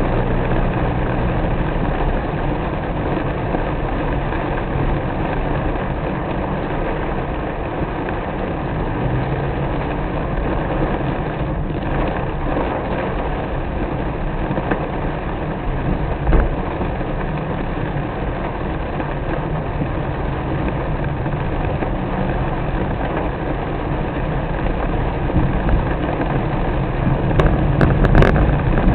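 Car driving in the rain: steady engine hum under a wash of road and rain noise, with a few short knocks near the end.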